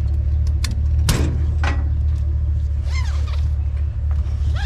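Scrap being shifted around in a pickup truck's bed: a sharp knock about a second in and another shortly after, then short squeaky scrapes, over a steady low rumble.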